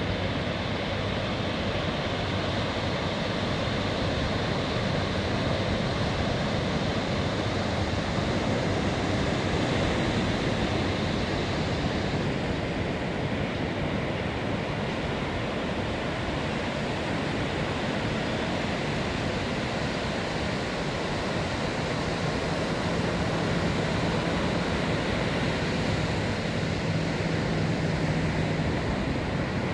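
Ocean surf washing onto a sandy beach, a steady wash of noise.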